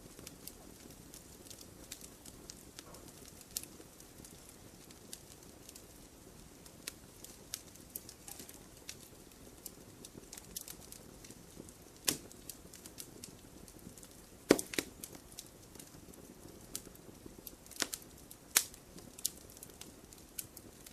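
Campfire crackling: a soft steady hiss of burning wood with irregular sharp pops and snaps, the loudest a few seconds apart in the second half.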